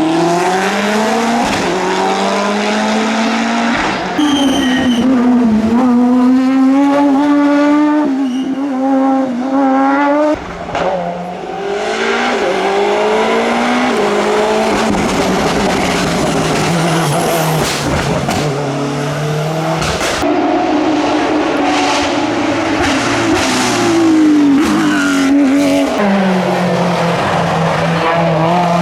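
Race car engines on a hillclimb course, revving hard and repeatedly climbing in pitch and dropping back through gear changes, with brief tyre squeal.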